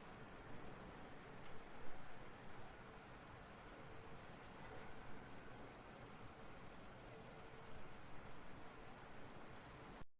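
Grasshopper stridulating: a continuous, high, even trill that stops abruptly near the end.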